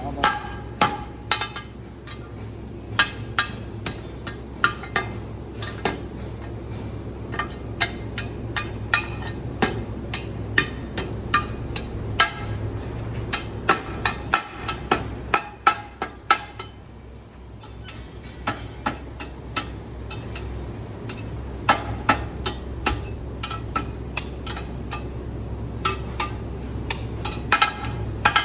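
Blacksmith's hammer striking iron, blows coming unevenly about one or two a second, each with a short metallic ring; the blows pause briefly past the middle. A steady low hum runs underneath.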